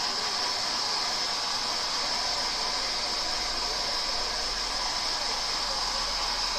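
Hand-held hair dryer running steadily, a continuous airy hiss of blown air and motor.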